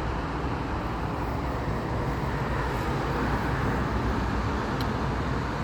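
Road traffic noise: a steady rush of passing vehicles, growing a little louder toward the middle.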